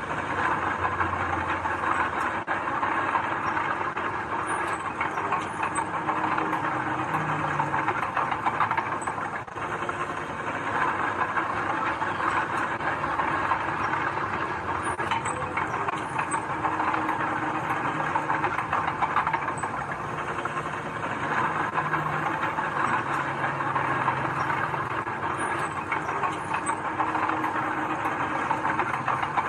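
Heavy diesel earthmoving machinery running steadily, its engine working under a dense mechanical rattle.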